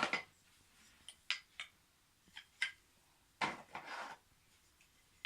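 Wooden toy train track pieces clacking against each other as they are picked up and set down, a string of sharp knocks with a longer sliding scrape about three and a half seconds in.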